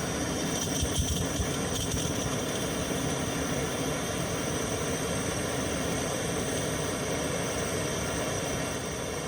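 Gas camp stove burner running at full flame, a steady rushing hiss under a pot of water heating for coffee.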